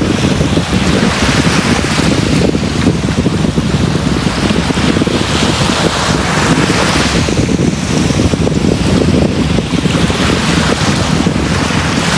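Sea waves surging and washing up a beach, a new wash swelling every few seconds over a steady low rumble, with wind buffeting the microphone.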